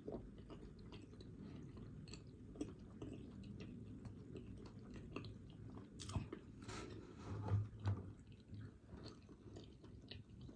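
A person chewing food close to the microphone, with soft wet clicks and smacks throughout and a few louder bites about six to eight seconds in.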